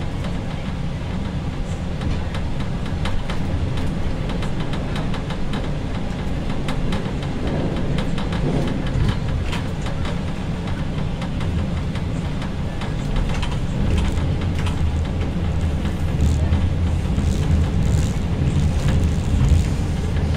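Passenger train running along the line, heard from inside the rear of the train: a steady low rumble of wheels on rail with many short clicks and knocks, growing a little louder in the second half.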